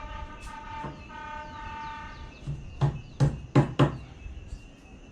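Train horn sounding a held multi-tone blast that cuts off a little over two seconds in, followed by four sharp knocks in quick succession.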